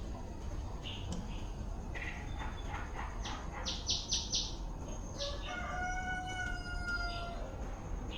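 A rooster crows once, a drawn-out call of about two seconds starting about five seconds in, after a few short, sharp calls, over a steady low background noise.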